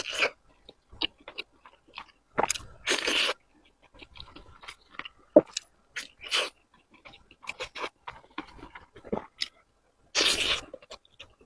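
Close-miked eating: a person chewing and biting food, with irregular wet mouth clicks and a couple of longer, louder spells of chewing about three and ten seconds in.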